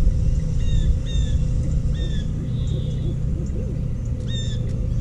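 Small birds chirping in short, falling notes, several times, over a steady low rumble.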